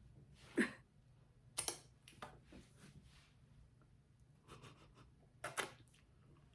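Plastic cling wrap crinkling in about five short, separate bursts as it is pressed onto the surface of a bowl of lemon curd.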